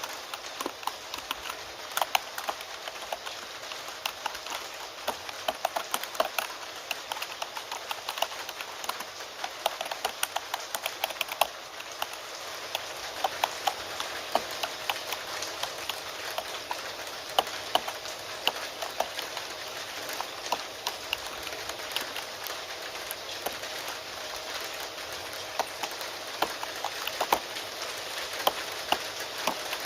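Computer keyboard typing, irregular quick keystroke clicks, over a steady rain hiss that gets a little louder about midway.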